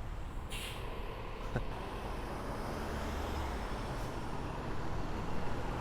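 A city bus's engine running as it pulls away from the stop, a steady low rumble mixed with street traffic noise.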